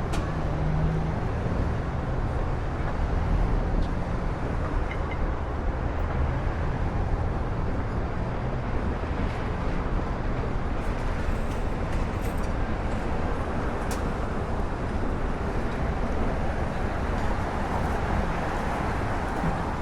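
City street traffic: a steady wash of passing cars and engines, with a low engine hum under it for the first few seconds.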